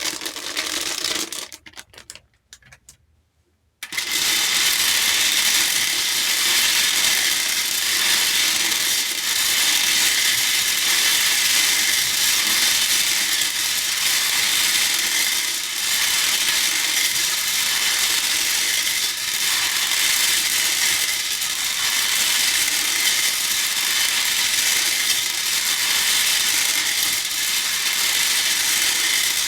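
Small plastic hair beads clattering in a bowl: a few scattered clicks, a short pause of near silence, then from about four seconds in a steady, dense rattle of many beads moving against each other and the bowl.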